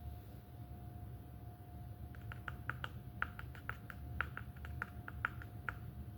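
A quick, irregular run of light clicks or taps starting about two seconds in, over a steady low hum.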